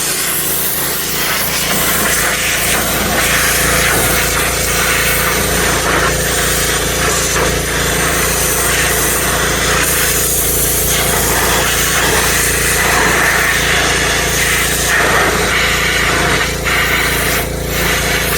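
Pressure washer running steadily, its spray blasting the softened paint remover and clear coat off an aluminum wheel.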